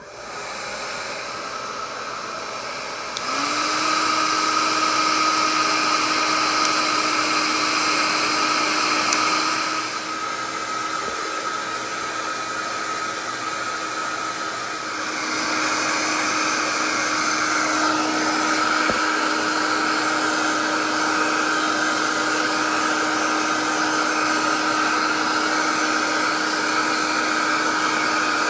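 Conair 1875W AC-motor hair dryer running with a steady blowing hiss and motor whine. About three seconds in it jumps louder with a brief rise in pitch, it drops back around ten seconds in, and it gets louder again around fifteen seconds.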